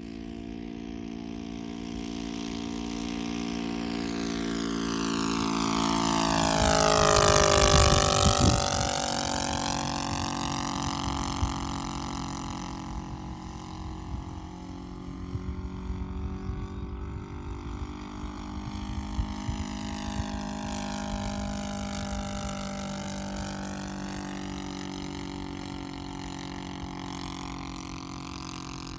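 The 60cc NGH 60i2 inline twin two-stroke petrol engine and propeller of a large radio-controlled Ju 87 Stuka model, running at speed in flight. The note rises and grows loud as the plane passes close, peaking about seven seconds in, then drops in pitch as it moves away. A second, softer pass swoops up and down in pitch around twenty seconds in.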